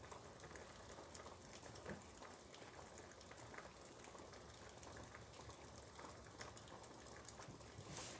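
Faint steady rain pattering outside an open window, a soft even hiss with scattered small drip ticks.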